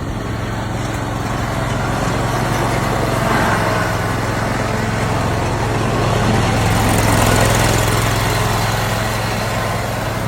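A motor vehicle engine running steadily with a deep hum, its noise swelling twice, about three seconds in and again around seven to eight seconds.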